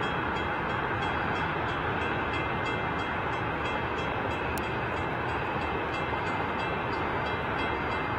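RS-25 liquid-fuelled rocket engine firing on a test stand: a steady, unbroken rumble.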